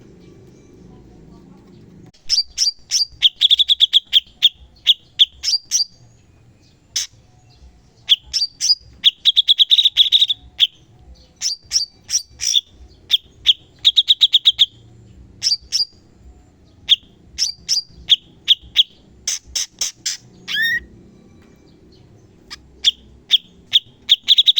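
Cucak cungkok songbird singing in rapid clusters of sharp, high repeated notes, the quick-fire 'tembakan' bursts prized in training recordings. The singing starts about two seconds in, pauses briefly near the end, then resumes.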